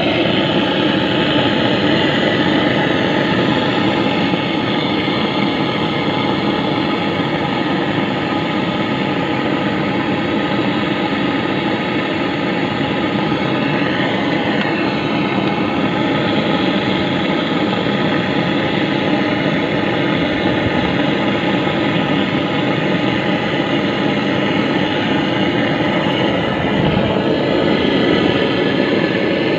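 A steady machine drone, a motor running continuously at an even pitch and level.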